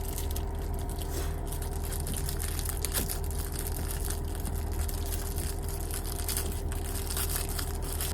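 Plastic food packaging crinkling and crackling in rapid, dense clicks as it is handled and opened, over a steady low hum with a constant mid-pitched tone.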